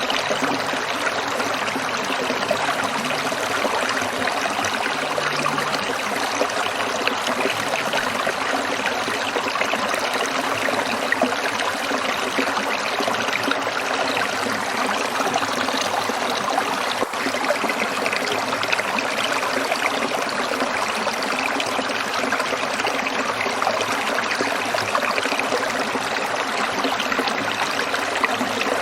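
A small stream trickling steadily over rocks, a continuous even rush of water.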